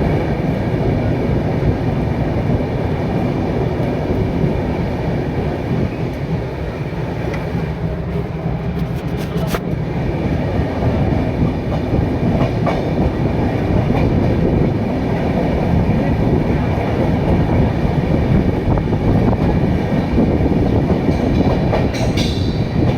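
Superfast express passenger train running through a station at speed without stopping: a steady loud rumble of coaches, with wheels clicking over rail joints.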